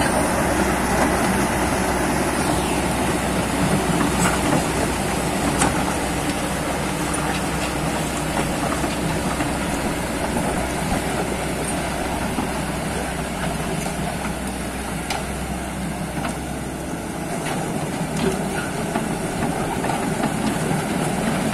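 Kobelco crawler excavator's diesel engine running steadily as the machine travels forward and back on its steel tracks, with a few light clanks from the tracks.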